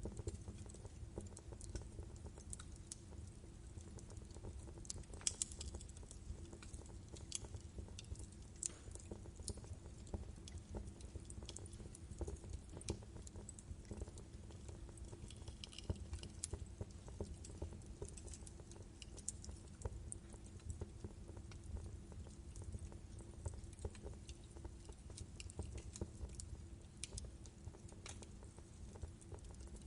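Wood fire crackling in a fireplace: irregular sharp pops and snaps of burning logs over a low steady rumble of the flames.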